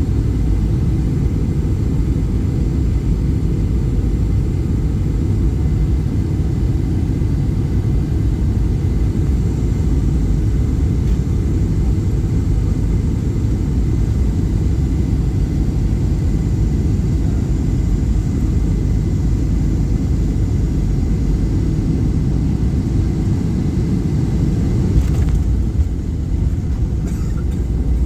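Steady low rumble of a Boeing 737-800 in flight heard inside the passenger cabin: its CFM56-7B engines and the airflow over the fuselage, with a faint high whine. There is a brief change in the noise near the end.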